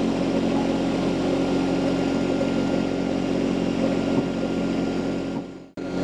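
Mini skid steer loader's engine running steadily at a constant speed, then fading and cutting off abruptly just before the end.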